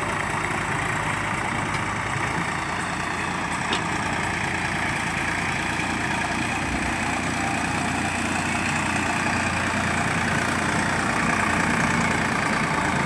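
Diesel engine of earth-moving machinery running steadily, growing a little louder near the end.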